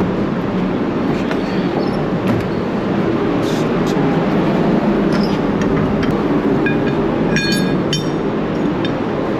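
Steady, loud machinery rumble on a ferry's vehicle deck, with scattered metallic clicks and a couple of ringing metal clinks about seven to eight seconds in.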